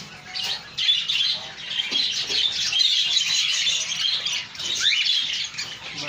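Caged birds chirping and chattering continuously in high, rapid notes, with one rising whistle about five seconds in.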